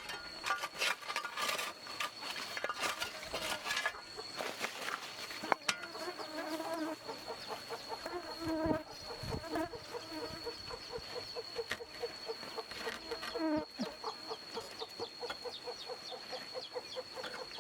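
Insects sounding with a steady high-pitched drone, joined partway through by a fast, even pulsing call, with chickens clucking now and then. Scattered clicks and knocks fill the first few seconds.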